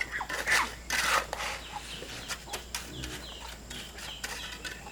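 Chickens: a couple of loud, harsh squawks near the start, then a run of short, high, falling peeps, several a second.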